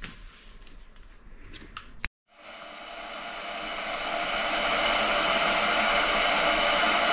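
A few light clicks, then a sharp click about two seconds in and a steady small-motor whir that builds up over a couple of seconds and then holds level.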